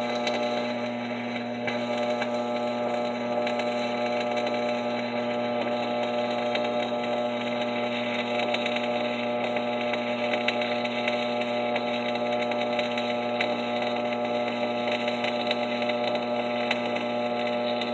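Stick-welding arc with a 3/32-inch 7018 electrode at about 85 amps, crackling steadily and without a break, over a steady electrical hum.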